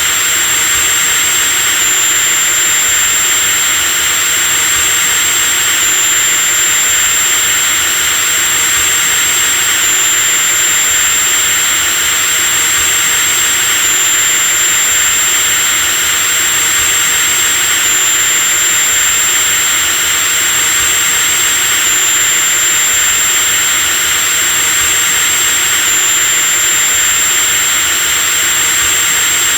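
Electric drill running continuously at a steady speed: a constant high whine over a hissing motor noise.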